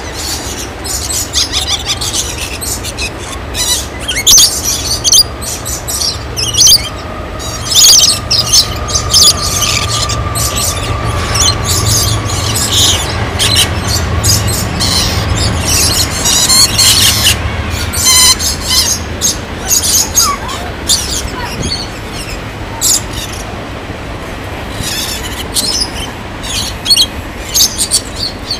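A flock of aviary birds screeching and chirping in a dense, continuous chorus over a steady low hum.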